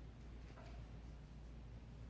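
Near silence: room tone with a steady low hum, and a faint brief sound about half a second in.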